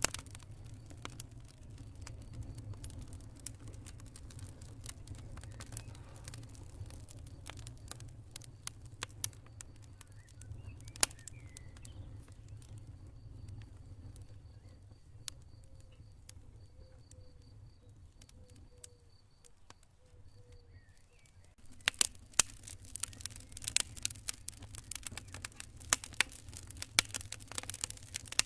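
Campfire burning with a low rumble and scattered sharp crackles and pops. The crackling thins out in the middle, where faint cricket chirping can be heard, then turns dense and loud again about three-quarters of the way in.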